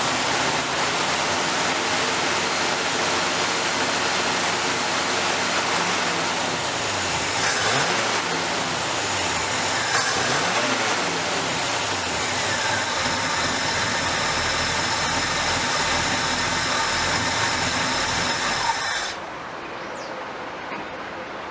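A car in motion: steady engine and road noise with a slowly shifting engine pitch. The noise falls off abruptly near the end.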